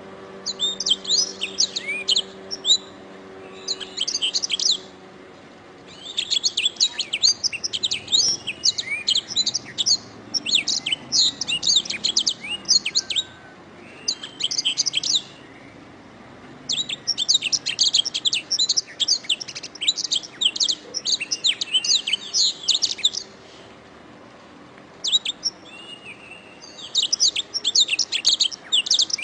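Domestic canary singing: phrases of fast, high chirps and trills, each lasting a few seconds, separated by short pauses.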